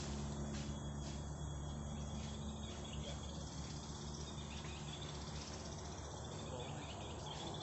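Insects chirping in a steady chorus over a low, steady hum.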